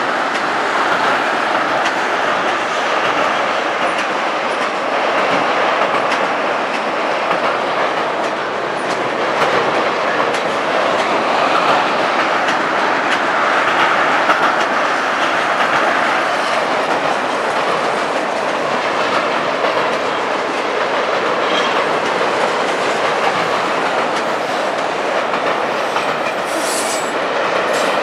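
Autorack freight cars rolling past: a steady rumble and clatter of steel wheels on the rails, with a brief high-pitched squeal near the end.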